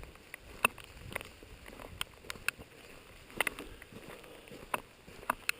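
Raindrops tapping irregularly on a jacket or the camera, a dozen or so sharp ticks over a faint steady hiss of rain.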